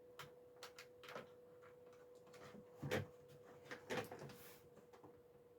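Scattered small clicks and knocks of hands handling a camcorder and its cable, the loudest two about three and four seconds in, over a faint steady hum.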